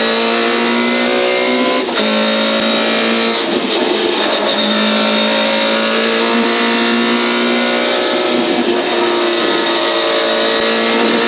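Lada 2101 rally car's four-cylinder engine pulling hard at high revs, heard from inside the stripped cabin. There is a short break in the note about two seconds in, then the pitch climbs slowly as the car accelerates flat out.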